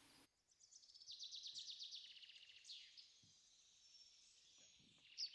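Faint outdoor quiet with a songbird singing a fast trill of repeated high notes that ends in a downward sweep about two and a half seconds in. A few more short chirps come near the end, along with a couple of faint soft knocks.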